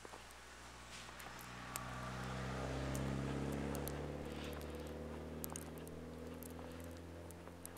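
An engine-driven vehicle passing at a distance: a low, steady engine note that swells to its loudest about three seconds in and slowly fades. Small scattered crunches of footsteps in snow run alongside.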